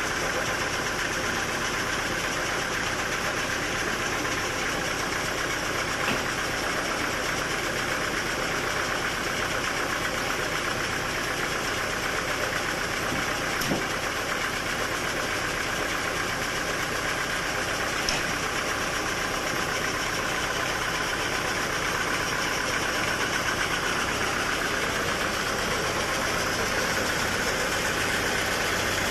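Sawmill machinery running steadily, an engine-driven saw, with a few brief sharp knocks.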